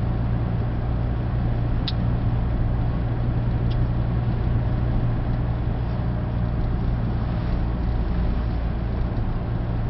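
Steady inside-the-car running noise: a low engine hum with tyre and road hiss on a snow-covered road. A short sharp tick sounds about two seconds in, and a fainter one near four seconds.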